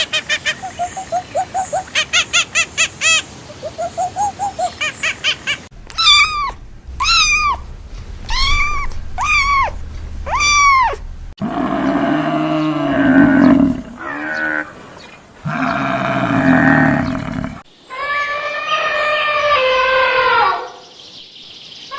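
A run of different animal calls spliced one after another. First comes a fast train of clicking pulses. Then five arching calls follow about a second apart, and last come several long pitched calls.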